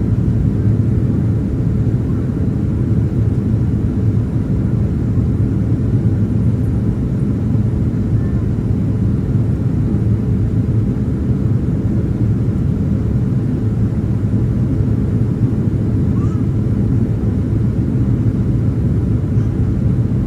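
Steady cabin drone of a Boeing 767-300ER airliner in flight, a constant low rumble with no change in level.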